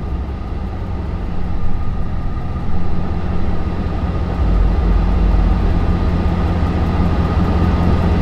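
Straight-piped Hemi V8 exhaust of a Chrysler 300 S droning steadily while driving, growing louder about halfway through.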